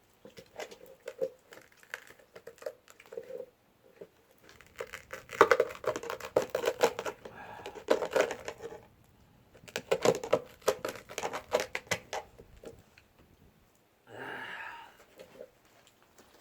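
Utensil scraping and clinking in a frying pan while turning an egg and green-onion pancake. The sound comes in two long runs of rapid scratchy clicks.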